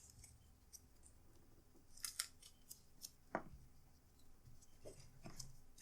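Faint snips and clicks of masking tape being cut and pressed down by hand, with a quick cluster of sharp clicks about two seconds in and two short falling squeaks in the second half.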